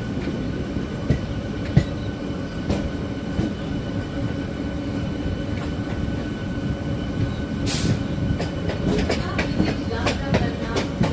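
Train running on the rails, a steady rumble with scattered clicks and knocks from the wheels and cars. About eight seconds in there is a short hiss.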